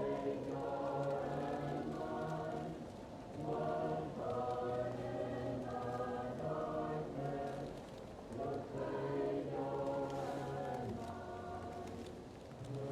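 Choir singing slow, sustained chords in phrases with brief breaths between them, muffled as if heard from another room, over the faint crackle of a wood fire.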